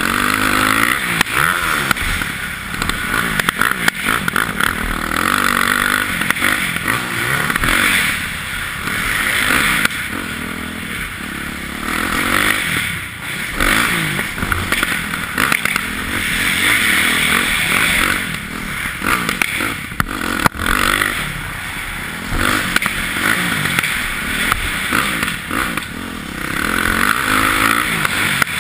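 Yamaha YZ450F dirt bike's single-cylinder four-stroke engine being ridden hard, its revs climbing and dropping again and again as the throttle is worked and gears are changed.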